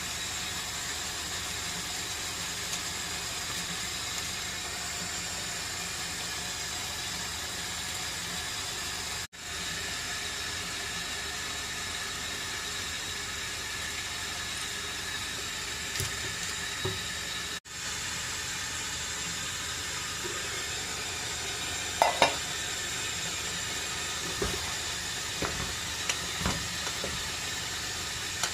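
Chicken adobo sizzling steadily in a pan, with a few clicks and knocks of a utensil in the second half, the loudest about two-thirds of the way through. The sizzle drops out for a moment twice.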